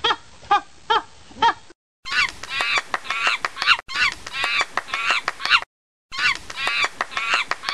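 Bird calls repeated in a series: single calls about twice a second at first, then dense runs of overlapping calls, broken by two abrupt cuts to silence.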